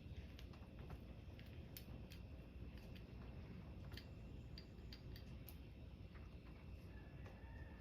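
Faint, scattered light clicks of small metal parts as garden tractor transaxle gears are handled and fitted together, over a low steady background rumble.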